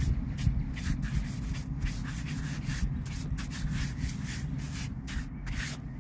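Irregular rubbing and scratching noises, several a second, over a steady low rumble, like something brushing against the microphone.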